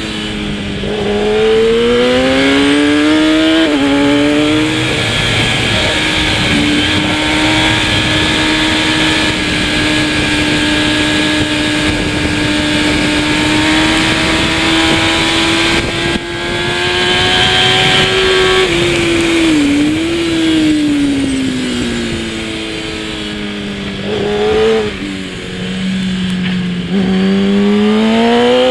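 Kawasaki ZX-10R superbike's inline-four engine at racing speed: it climbs in revs with a quick upshift, holds high and slowly rising revs for a long stretch, then falls away with downshifts under braking about two-thirds of the way through, and revs up hard again near the end. A steady rush of wind and road noise runs under the engine.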